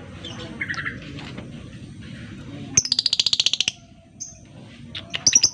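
Lovebird calling: a short chirp, then a fast chattering trill of about fifteen sharp, high notes in under a second, and a few more sharp chirps near the end. This is the rapid chatter that lovebird keepers call ngekek.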